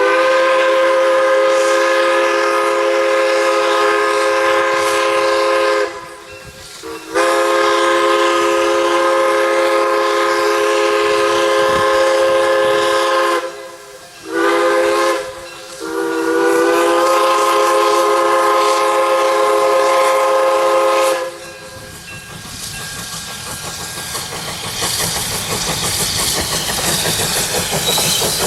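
Steam locomotive's chime whistle blowing a chord of several notes in the long, long, short, long grade-crossing pattern. After the last blast, steam hiss and running noise build up.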